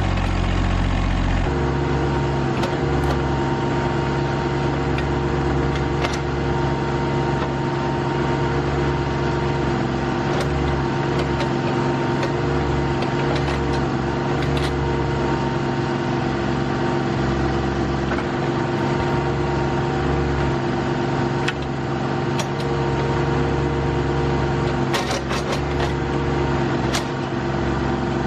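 RK25 subcompact tractor's engine running steadily, its note changing about a second and a half in, with a few short light knocks scattered through.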